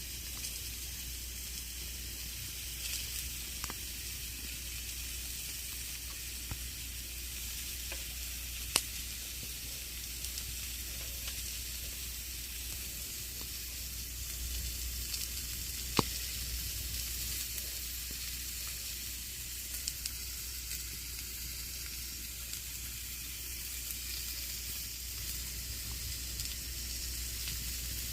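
Campfire (bonfire) burning: a steady hissing crackle with scattered sharp pops of the burning wood, the two loudest about nine and sixteen seconds in.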